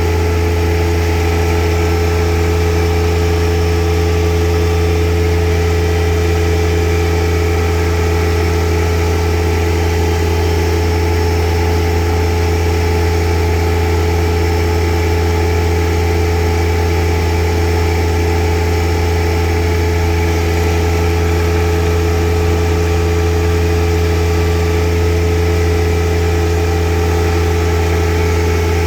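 An engine running steadily at one constant speed: a loud, unchanging low hum with no revving.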